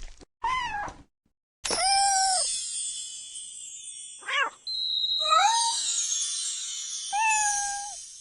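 A cat meowing five times in short calls, each bending up and then down in pitch, over a high hissing shimmer with music.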